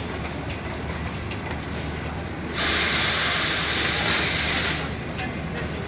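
Passenger train rolling with a steady low rumble. About two and a half seconds in, a loud hiss of compressed air venting starts abruptly and cuts off about two seconds later.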